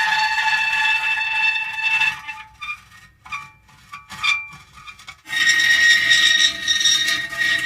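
Metal creaking in long, drawn-out squealing tones. In the middle comes a quieter stretch of short, broken creaks, and a long steady creak starts again about five seconds in.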